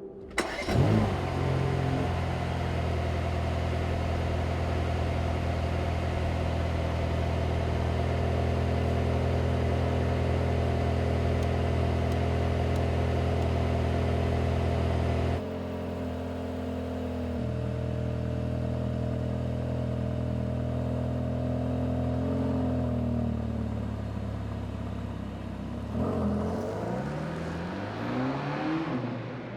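Mercedes-AMG GT Black Series' twin-turbo 4.0-litre flat-plane-crank V8 starting with a quick rev flare, then settling into a steady fast idle. About halfway through the idle drops a step lower, and near the end it is revved briefly, the pitch rising and falling.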